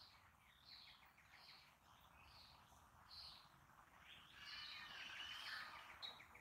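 Faint songbirds calling in the woods: short high chirps repeated about once a second, with a fuller, busier burst of song about four seconds in.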